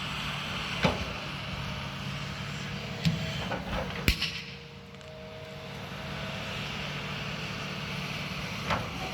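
Excavator's diesel engine running steadily while it works a dirt pile, with four sharp knocks along the way, the loudest about four seconds in.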